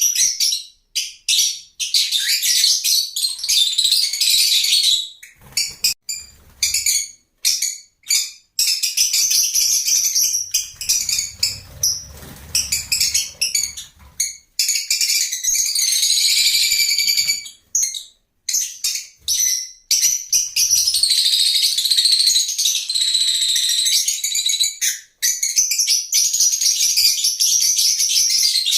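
Lovebirds chattering: rapid, high-pitched chirps and squeaky calls, several birds at once, with short pauses.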